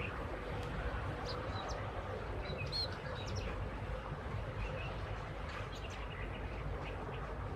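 Small birds giving a few short, high chirps, most of them bunched between about one and three and a half seconds in, over a steady low background rumble.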